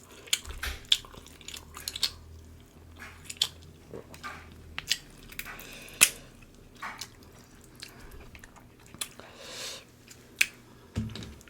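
Close-miked eating of king crab legs from a seafood boil: chewing and smacking with sharp clicks and cracks scattered throughout, the loudest about six seconds in.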